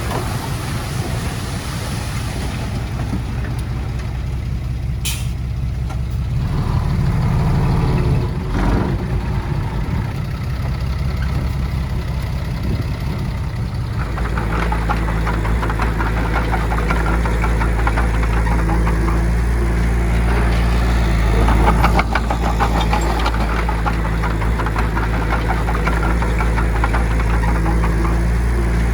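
Heavy diesel engine of earthmoving machinery running steadily. The engine note changes about halfway through to a heavier, deeper run.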